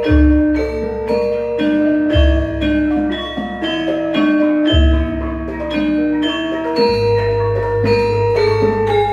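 Javanese gamelan ensemble playing a gending: metallophones strike a steady run of ringing notes, with a deep low stroke about every two seconds. From about seven seconds in, a low tone keeps ringing under the melody.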